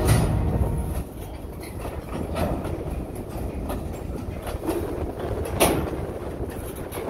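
Freight train of covered hopper cars rolling past with a steady low rumble and wheels clicking over rail joints, louder in the first second. A sharp metallic clank stands out about five and a half seconds in.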